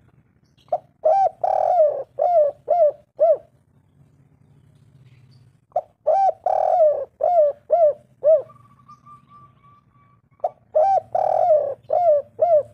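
Spotted dove (tekukur) cooing: three phrases of about six low coos each, one phrase roughly every five seconds.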